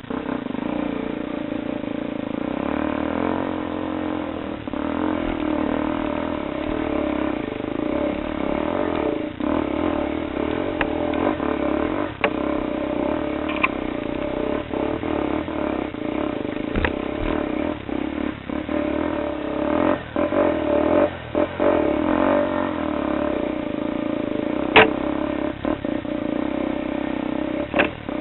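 Motorcycle engine running steadily under load, with scattered sharp knocks and clatter, one louder knock near the end.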